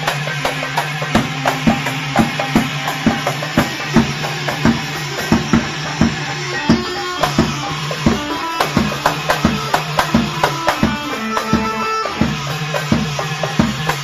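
Live band playing an instrumental passage of popular party music: a steady drum beat with a melody instrument and bass over it, without singing.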